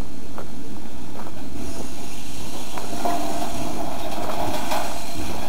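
Heisler geared steam locomotive on the move: a steady low rumble with a few faint ticks, and a faint high tone coming in about halfway through.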